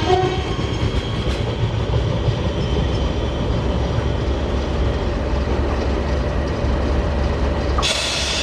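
A train running past on the line, a steady rumble of wheels on the track. The falling notes of a train horn end just after the start, and about eight seconds in the sound changes abruptly as a hiss sets in.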